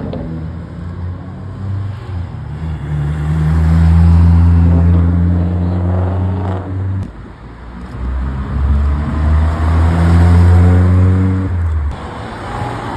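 Car engines running loud and revving as cars drive off, in two louder stretches, the first building to its peak about four seconds in and breaking off around seven seconds, the second running from about eight seconds to near the end.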